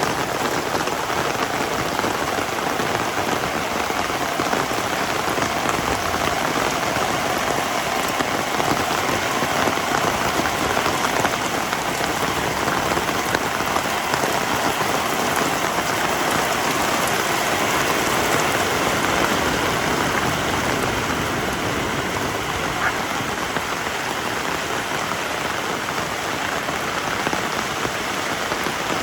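Heavy rain falling steadily, a dense, even patter of raindrops on surfaces.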